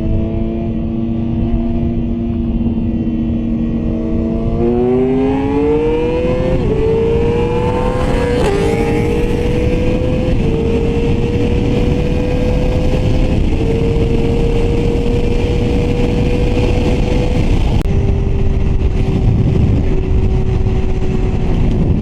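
Yamaha R6 sport bike's inline-four engine holding a steady note, then accelerating hard about five seconds in, its pitch climbing through several quick upshifts. It then holds a steady higher note under heavy wind rush, dropping a little near the end as the throttle eases.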